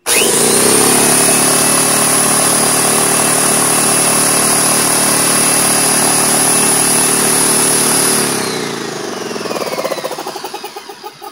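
DeWalt 4.5-gallon belt-driven air compressor starting abruptly and running steadily with a high whine for about eight seconds. It then winds down, its pitch falling as it coasts to a stop. This is the formerly no-start compressor running again after its burnt power plug was replaced.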